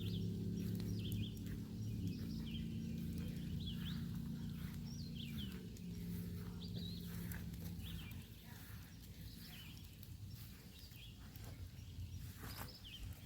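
A bird calling over and over in short, high, rising chirps, over a low steady engine-like hum that shifts pitch twice and fades out about eight seconds in.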